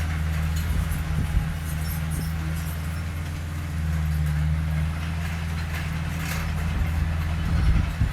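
Large diesel engine of heavy earthmoving machinery running steadily with a low drone, with a few faint knocks.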